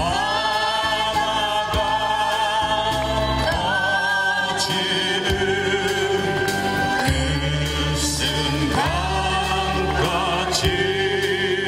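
A group sing-along: many voices singing together in long held notes with vibrato, over a steady bass accompaniment.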